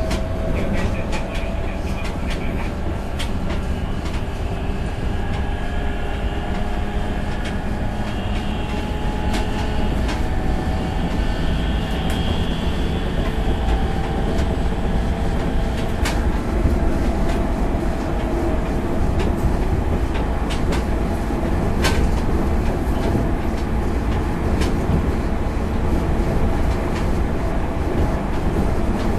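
Running noise inside a JR 205 series 5000 subseries electric train's motor car: a steady rumble of wheels on rail, under a whine from the VVVF inverter and traction motors that shifts in pitch. A few sharp clicks from rail joints pass beneath.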